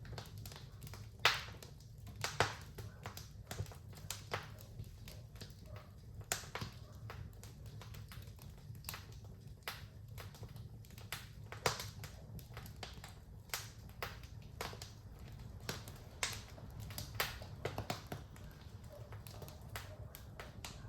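Wood fire in a fireplace crackling, with irregular sharp pops and snaps, a few louder than the rest, over a steady low rumble of the burning.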